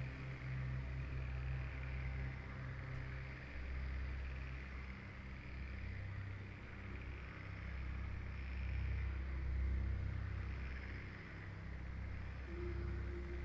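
Wind rushing through rainforest foliage, swelling and easing in slow waves, over a low steady hum.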